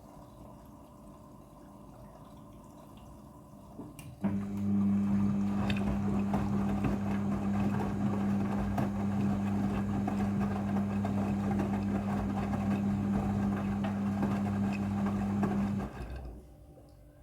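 Midea front-loading washing machine working water through: a steady electric hum with water rushing starts suddenly about four seconds in and cuts off about sixteen seconds in, after a few seconds of faint trickling.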